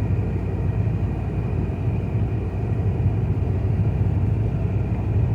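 Dodge Ram 1500 pickup driving, a steady low rumble of engine and road noise, with a faint, steady high tone over it.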